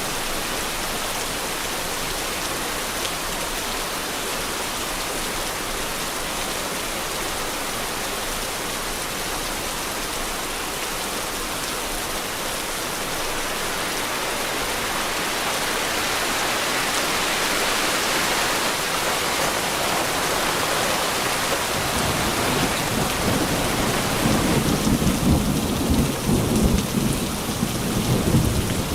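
Steady heavy rain, swelling louder about halfway through, then a long, deep rumble of thunder building over the last several seconds.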